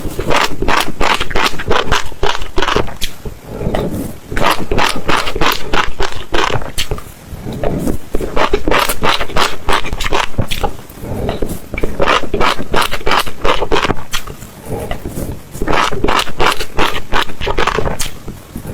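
Crunchy food being chewed close to the microphone: rapid crisp crunches, about five or six a second, in runs of a few seconds with short pauses between bites.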